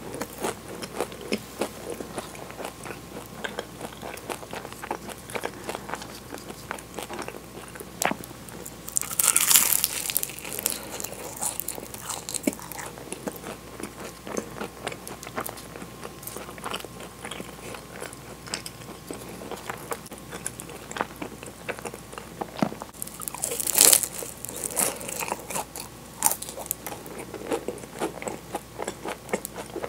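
Close-miked chewing of flaky Portuguese-style egg tarts, with two loud crisp crunches of the pastry crust as she bites in, about a third of the way in and again about three quarters of the way through.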